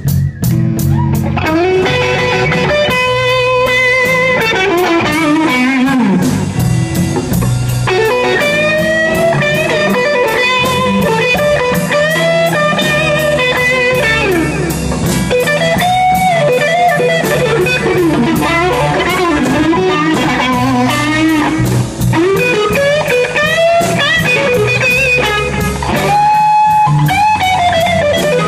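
Live blues band playing, with an electric guitar soloing in bends and slides over bass and drums.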